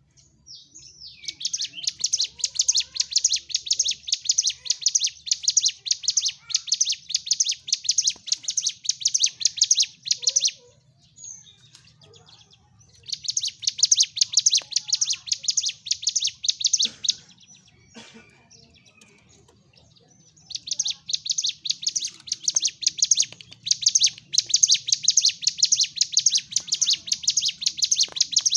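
Ciblek gunung singing in long runs of rapid, high chirps: its 'tarung' fighting song. There are three bouts of several seconds each, with pauses of about two to three seconds between them.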